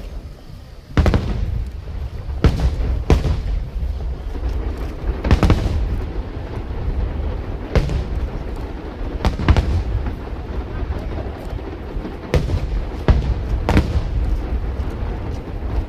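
Aerial fireworks shells bursting: about a dozen loud booms at uneven intervals, some in quick pairs, with a low rumble between them.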